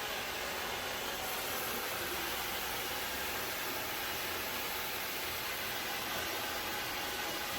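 Ecovacs Deebot 601 robot vacuum running, a steady hiss of its suction fan with a faint hum.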